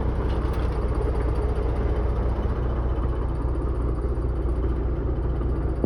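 An engine idling with a steady low hum. A sharp click comes at the very end.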